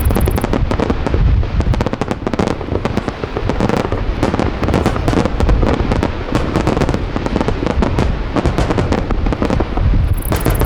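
Large aerial fireworks shells bursting in rapid succession: a continuous barrage of deep booms overlapping with dense crackling.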